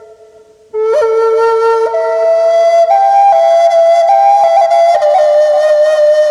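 Black Natura Native American flute playing a slow melody. A held note dies away, then after a short pause a new phrase starts under a second in and climbs through a few held notes with quick grace-note flicks, settling on a lower note near the end.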